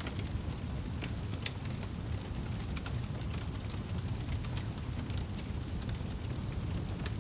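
Wood fire burning in a fireplace: a steady low rumble of flames with sharp, irregular crackles and pops from the firewood.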